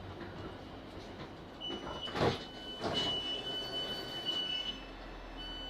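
Cabin noise of a Class 458 electric multiple-unit train coming in to a station stop. A steady high tone sets in about one and a half seconds in, and two short bursts of noise come soon after.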